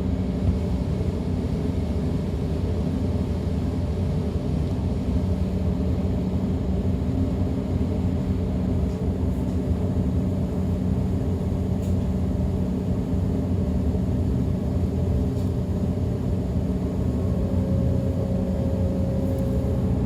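DB class 425 electric multiple unit running along the line, heard from aboard: a steady rolling rumble with a constant low hum, and a faint higher whine coming in near the end.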